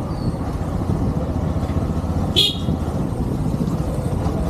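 Motorcycle riding through city traffic: a steady rumble of engine and wind noise, with one short, high-pitched horn toot about two and a half seconds in.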